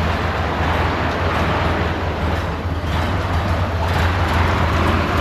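1927 Dodge Brothers Fast Four four-cylinder engine running steadily, just started after a head gasket replacement and still cold.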